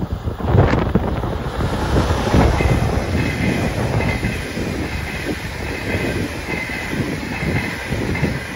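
ÖBB Railjet passenger train passing close at speed: a loud rush of wheels on rail with a rapid clickety-clack of wheelsets over the track. It swells sharply about half a second in, and a thin high ringing from the wheels rides over the rumble from a couple of seconds in.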